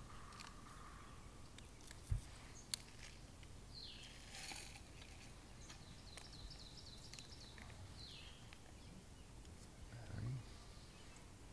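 Faint woodland ambience with birds calling: a descending whistle about four seconds in and again near eight seconds, with a short chirping trill between them. A couple of sharp clicks from handling camp cooking gear come about two seconds in.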